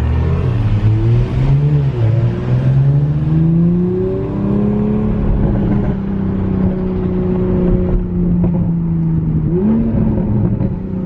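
Car engine under way, its pitch climbing gradually for about four seconds as it accelerates, then holding steady at cruise, with a quick drop and rise in revs near the end.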